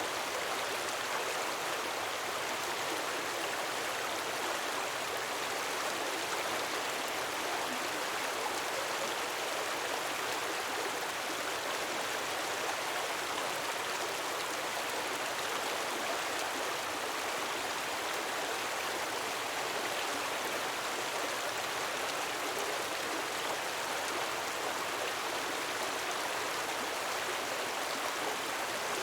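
Gentle waterfall: a steady, even rush of falling water with no swells or breaks.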